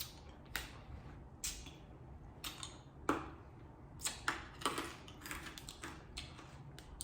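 Close-miked eating sounds of a hard chamoy lollipop with chili powder: irregular sharp clicks and crunches of the candy against the teeth, coming closer together about four seconds in.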